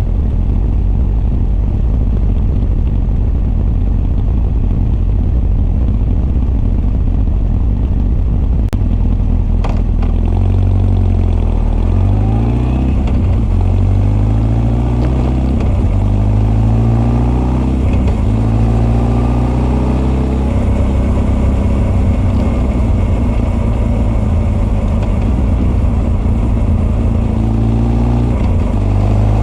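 Honda CB1300 SF inline-four breathing through Keihin FCR41 carburetors and a Wyvern exhaust. It runs low and steady for about ten seconds, then revs rise and fall repeatedly as the bike accelerates and shifts. Two faint clicks come just before the revs pick up.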